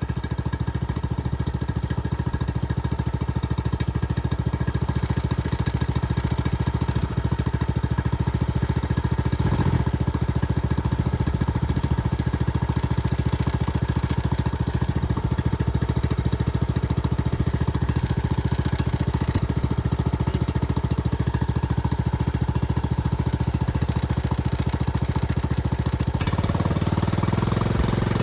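Small petrol engine of a Husqvarna Rider 13 ride-on mower running steadily with an even firing beat. Its sound changes about two seconds before the end.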